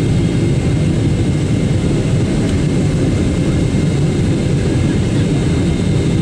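Cabin noise inside a Boeing 777-300ER airliner in flight before landing: a steady, loud rumble of airflow and jet engines, with faint steady whining tones over it.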